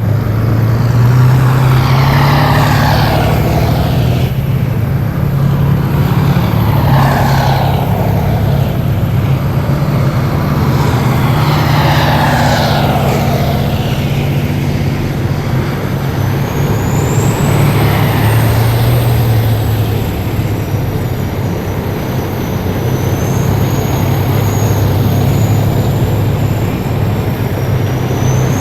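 Heavy military vehicles drive past one after another, with a steady low engine drone under a whoosh that falls in pitch as each one goes by, four times. From about halfway through, a high thin whine wavers above the drone.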